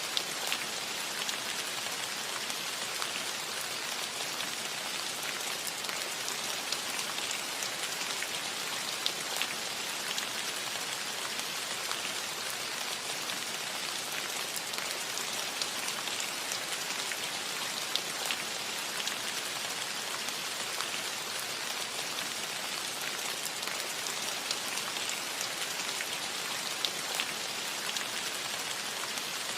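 Steady rain pattering on a metal roof, a dense even hiss of drops with occasional sharper individual drop ticks.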